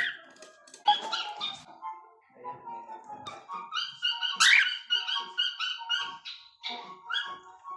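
Cockatiels whistling and chirping: a run of short, quickly repeated whistled notes, with one louder rising call about halfway through, after a few sharp clicks near the start.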